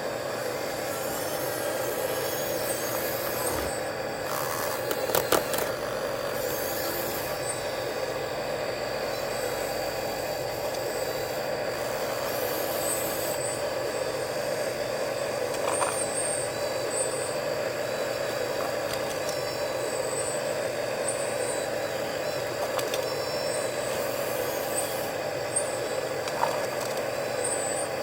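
Excavators at work: a steady mechanical drone, with a few sharp clicks about five seconds in.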